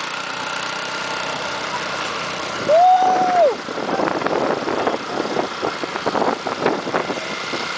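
Motorcycle engine running under way, with a steady noise of riding. About three seconds in, a person gives one long shout. After it comes a run of rattles and knocks.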